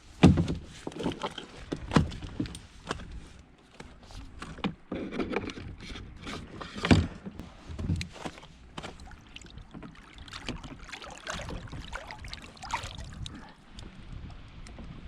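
Irregular knocks, thumps and clatter of gear being handled aboard a kayak, the hardest knocks near the start, about two seconds in and about seven seconds in.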